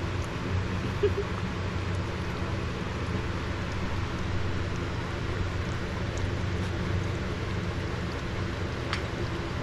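A steady low machine hum runs throughout, with a few faint ticks over it.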